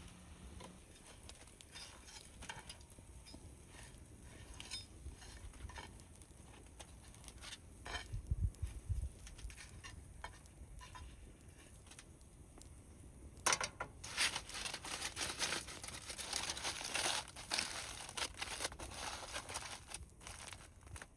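Handling noise from camp-cooking preparation: packaging crinkling and rustling with small clinks and knocks of pans or utensils, getting busier in the second half. A brief low rumble comes about eight seconds in.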